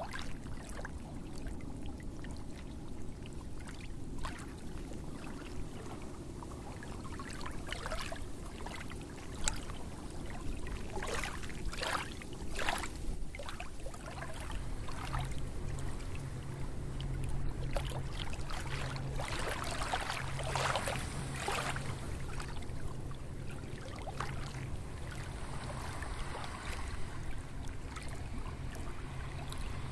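Water splashing and trickling over a steady rush of noise, with a low steady hum that comes in about halfway through.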